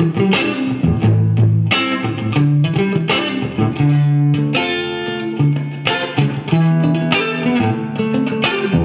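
Electric guitar played through a Marshall JVM 410 valve amplifier fitted with new valves, as a play test. Chords and notes are struck about once a second and left to ring, with a light overdrive.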